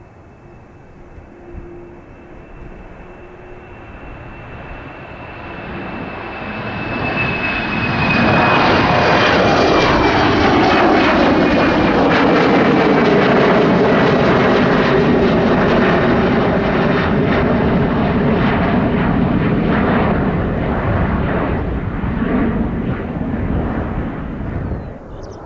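KLM Embraer E190 regional jet's twin turbofans at takeoff thrust on the departure climb, passing by: a roar that builds, peaks and fades, with a high fan whine and lower tones gliding down in pitch as it goes past. The sound cuts off near the end.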